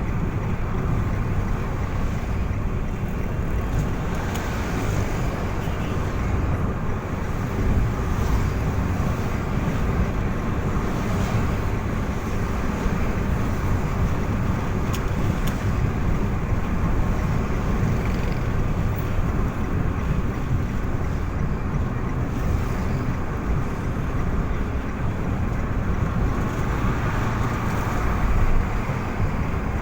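Steady road and engine noise of a vehicle on the move, a continuous low rumble with wind noise over it.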